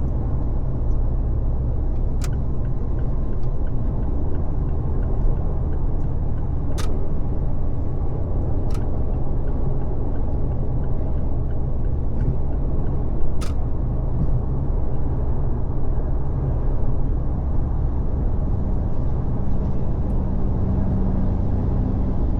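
Car driving at freeway speed: steady low road and tyre rumble with engine noise, broken by four sharp clicks spread through it.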